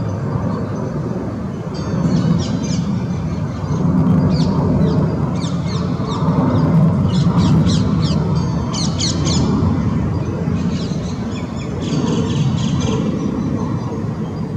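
Small songbirds chirping in short quick runs of high notes, a group every second or two, over a steady low rumble.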